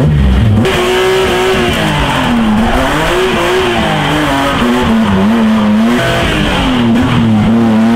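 Engine of a stripped-out competition car with a hydraulic handbrake, heard from inside the cabin, revving up and down about once a second while the tyres squeal in a slide.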